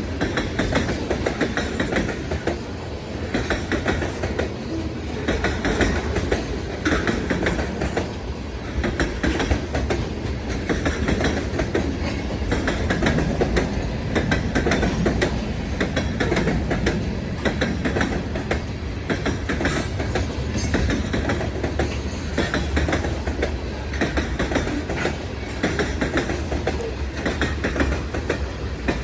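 Freight train rolling past: a steady rumble with wheels clicking over the rail joints.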